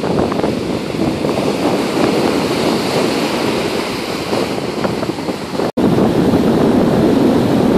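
Wind buffeting the microphone over breaking ocean surf, a steady noisy rush. The sound drops out for an instant about three-quarters of the way through, where the footage is cut.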